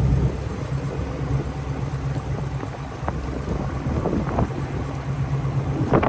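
2020 Dodge Charger Scat Pack's 392 (6.4-litre HEMI) V8 idling steadily with a low rumble.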